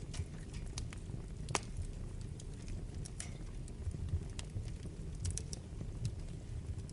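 Wood fire burning in a fireplace: a steady low rush of flames with irregular sharp crackles and pops. The loudest pop comes about one and a half seconds in.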